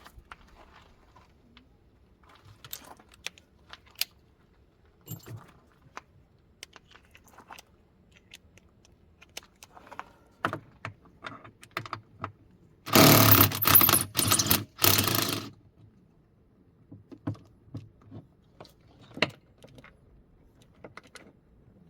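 Metal clinks and small knocks of tools and parts being handled, with one loud rushing burst of about two and a half seconds, broken by short gaps, a little past the middle.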